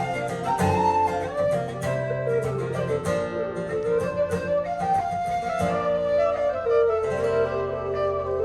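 Irish traditional tune played by a trio: a wind-instrument melody, flute-like, over button accordion and plucked banjo or bouzouki accompaniment, with sustained low notes underneath and a steady driving rhythm.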